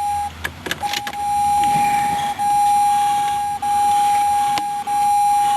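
Steady electronic warning tone from a 2004 Jeep Grand Cherokee's dashboard, held on one pitch with a few brief breaks, with a few light clicks.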